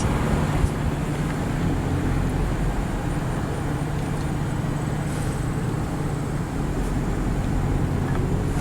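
Steady car engine hum and road noise heard from inside the car while driving.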